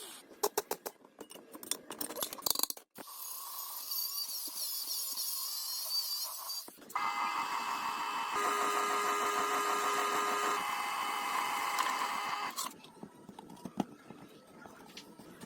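Workshop tool sounds in abruptly cut segments: a run of clicks and taps, then a high wavering whine, then several seconds of a louder machine whine with steady tones. About two seconds from the end it stops suddenly, leaving lighter scattered taps.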